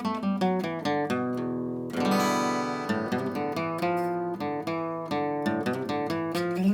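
Steel-string acoustic guitar being played: a quick run of picked notes, with a full strummed chord about two seconds in that rings on.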